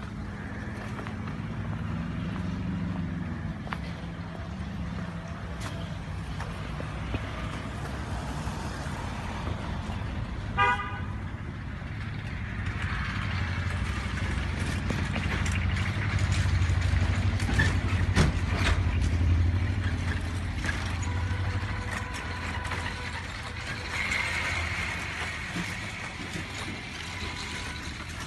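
Vehicle engines running with a low rumble that grows louder in the middle, and one short horn toot about ten seconds in.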